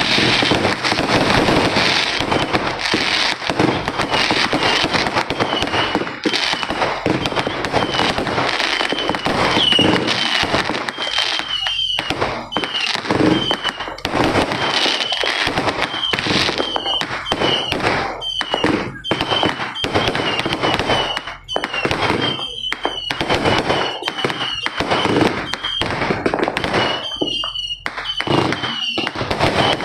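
Consumer fireworks and firecrackers going off continuously, a dense crackle with many sharp pops. A short high chirp repeats about once a second through it from about six seconds in.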